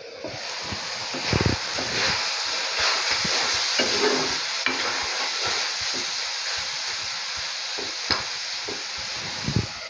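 Silkworm pupae sizzling as they fry in oil in a wok, stirred with a metal spoon that scrapes and clicks against the pan.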